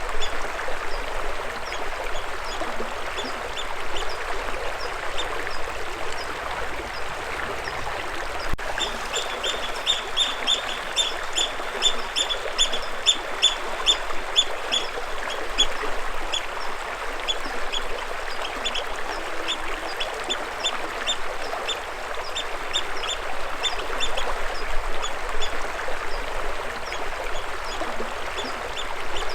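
Steady rush of flowing stream water with a bird giving short, high, repeated chirps over it, a quick run of about two or three a second about a third of the way in, then sparser.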